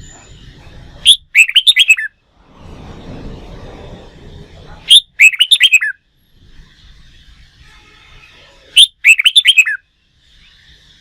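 Red-whiskered bulbul song: three short, loud phrases of quick chirping notes, each nearly identical to the last, repeated about every four seconds.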